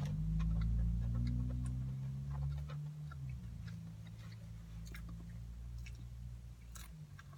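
Chewing curly fries with small, scattered mouth clicks, over a loud, low, steady hum that eases off after about three seconds.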